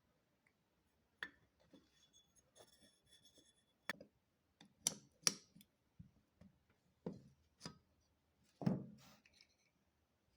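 Small metal parts and tools being handled on a bench: irregular clicks, taps and clinks, with a brief high metallic ringing about three seconds in and a duller, heavier knock near the end, the loudest.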